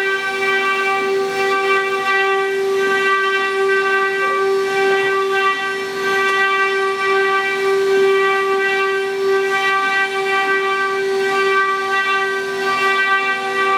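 Spindles of a multi-head CNC wood router running with a steady whine.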